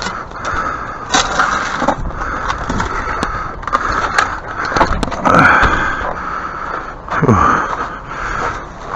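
Shovel scraping and digging through root-filled soil: a series of irregular scrapes, some sliding down in pitch.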